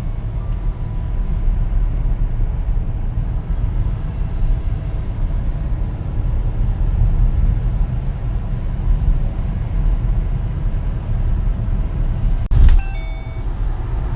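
Steady low rumble like a vehicle's road noise. Near the end a sharp knock is followed by a few brief high tones.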